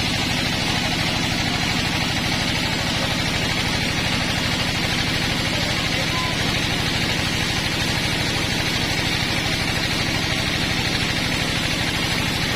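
Engine-driven sawmill running steadily: an even engine drone with a steady high hiss over it.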